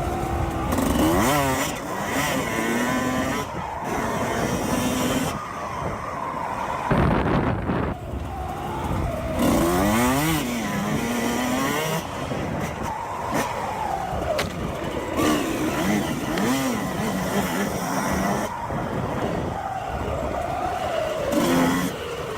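Suzuki RM 125 two-stroke dirt bike engine being ridden hard, its pitch repeatedly climbing and dropping as it revs and shifts gears, with wind rushing over the microphone.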